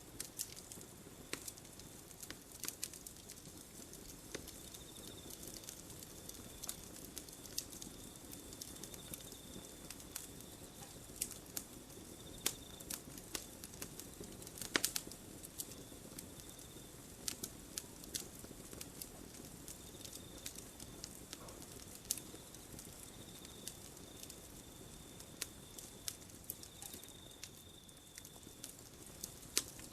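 Campfire crackling: irregular sharp pops and snaps of burning wood over a soft, steady hiss of flames, with one louder pop about halfway through.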